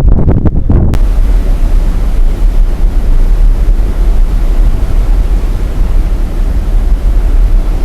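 Strong wind buffeting the microphone on the deck of a sailing cruise ship, a heavy gusting rumble. About a second in, a steady rushing hiss joins it and carries on.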